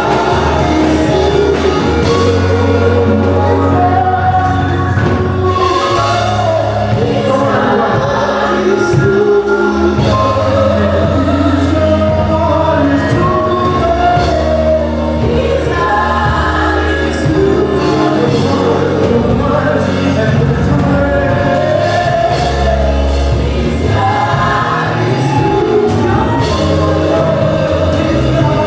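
Gospel choir singing a worship song over instrumental backing with long held bass notes.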